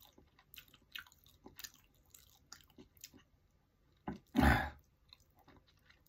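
Close chewing of a toasted sandwich: a quick run of small crackly crunches, with one louder, fuller mouth sound about four and a half seconds in.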